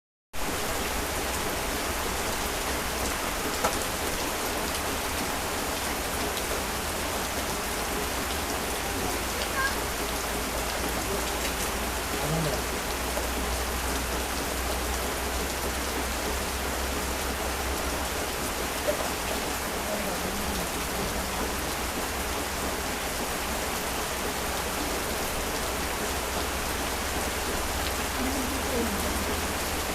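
Heavy rain falling steadily, a dense even hiss of drops on surfaces, with a few sharper drop impacts standing out now and then.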